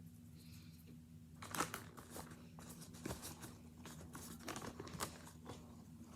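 Hard, frozen cornstarch chunks crunching and crackling in a quick, irregular run of sharp cracks, the loudest about one and a half seconds in, over a faint steady low hum.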